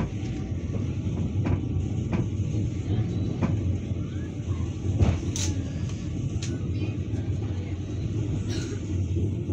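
Passenger train running, heard from inside the carriage: a steady low rumble with scattered sharp clicks and knocks.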